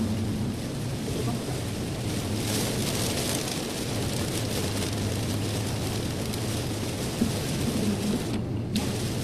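Steady road noise of a car driving on a wet highway: tyres hissing on the wet road over a low, even engine and road drone. The hiss drops out briefly near the end.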